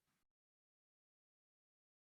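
Silence: the audio is dead, with no sound at all.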